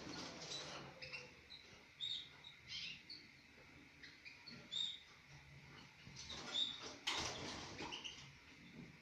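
Canaries at the nest giving short, high chirps scattered through, with a few brief rustling noises, the loudest about seven seconds in.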